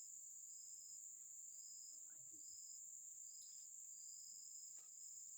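Faint forest insects: one keeps up a steady high-pitched drone while another repeats short, high notes about three times every two seconds.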